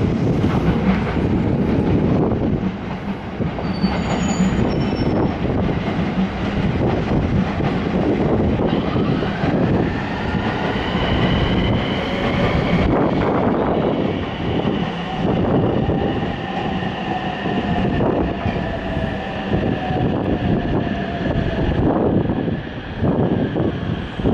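Train rolling through the station, wheels knocking over rail joints, with a high wheel squeal that bends in pitch from about nine seconds in to about twenty-one seconds in.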